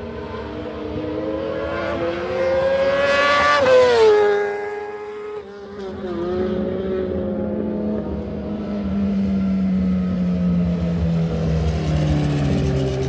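High-displacement racing motorcycle engines revving while warming up. The pitch climbs to a peak about four seconds in and falls sharply, then a lower engine note slides slowly downward near the end.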